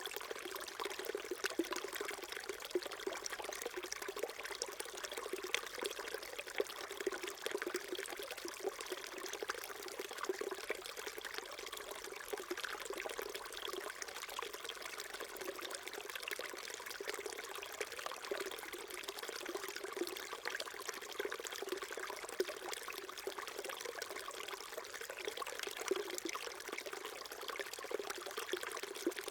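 A small mountain stream trickling and burbling steadily over rocks.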